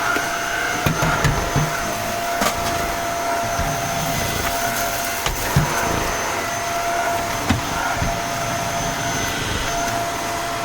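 Shark cordless stick vacuum running at a steady pitch, a constant motor whine over rushing airflow, with a few short knocks as the floor head is worked over the stairs.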